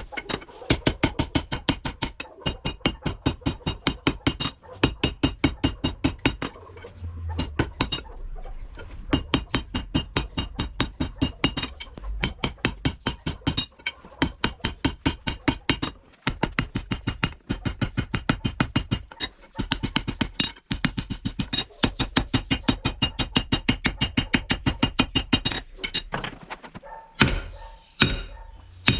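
Rapid, even hammer blows on hot steel from a thick truck spring being forged, about seven strikes a second, in runs of a few seconds with short pauses. It slows to a few single blows near the end.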